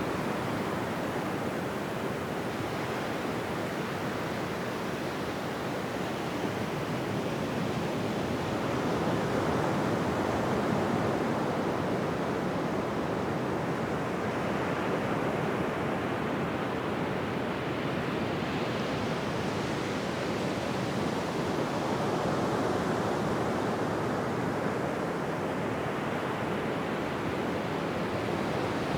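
Ocean surf washing onto a beach: a continuous hiss of breaking waves that swells and eases slowly, with fuller surges about a third of the way in and again past the middle.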